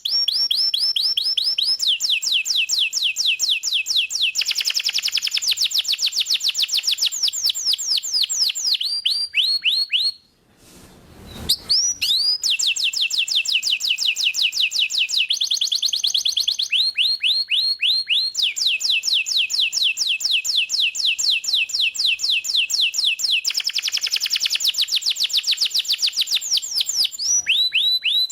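Domestic canary singing continuously: rapid trills, each a fast run of quick downward-sweeping notes, switching to a new trill every second or two. There is one pause of about a second around ten seconds in.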